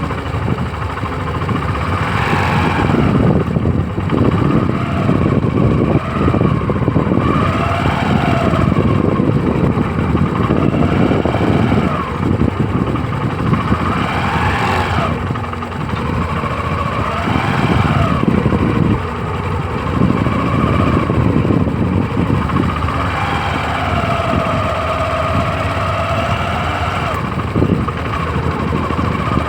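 Tractor engine running under way, its pitch rising and falling every few seconds as the revs change.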